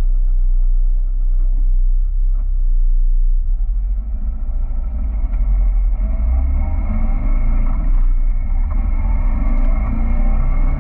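Caterham Roadsport's engine heard from on board the open car: idling steadily at first, then about three and a half seconds in the car pulls away and the engine note rises as it accelerates.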